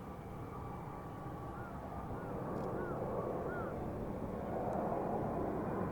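Distant military jet engine rumble growing steadily louder as the aircraft approaches.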